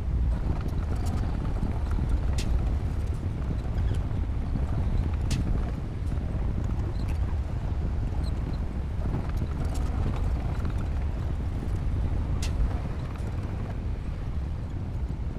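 Bulldozer's diesel engine running with a steady low rumble, its crawler tracks clanking, with a few sharper metallic knocks.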